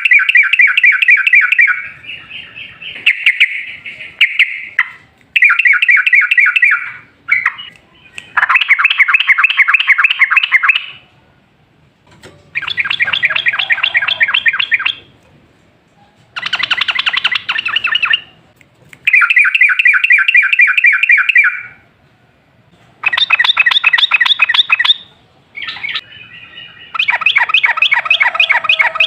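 Yellow-vented bulbul (trucukan) singing long, rapid chattering trills. They come in about ten bouts of two to three seconds each, with short pauses between.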